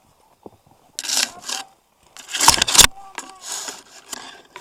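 Rustling and scraping close to the microphone in several short bursts, with a few sharp clicks; the loudest bursts come a little after two seconds in.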